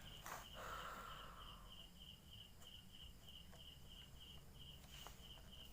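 Faint cricket chirping, a steady, evenly spaced train of high chirps about three a second, with a soft hiss that fades out within the first two seconds.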